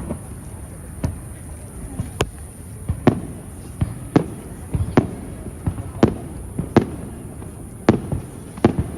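Aerial fireworks shells bursting: about a dozen sharp bangs at irregular intervals, roughly one a second.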